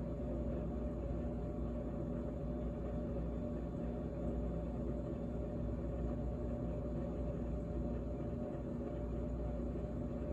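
GE GTH18XCTZRBB refrigerator running: a steady hum with several held tones and a low rumble underneath.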